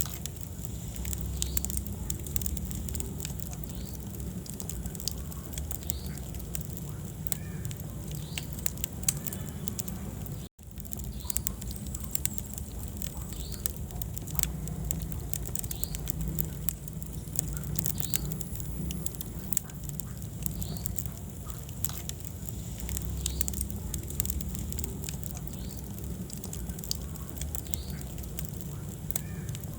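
Wood fire burning in a fireplace, crackling and popping in quick, irregular snaps over a steady low rumble of flame. The sound cuts out for a split second about ten seconds in.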